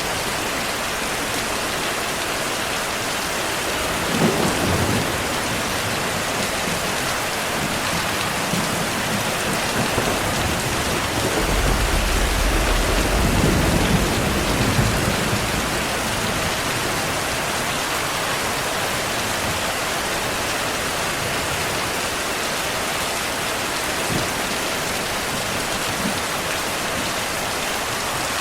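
Steady rain falling, with thunder: a short clap about four seconds in and a longer low rumble from about twelve to fifteen seconds.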